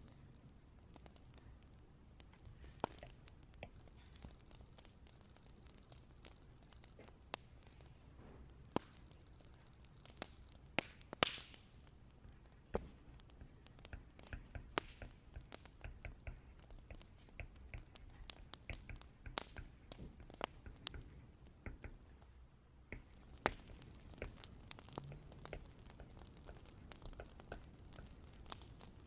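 Wood fire crackling: irregular sharp pops and snaps over a low steady rumble, with one louder pop about eleven seconds in.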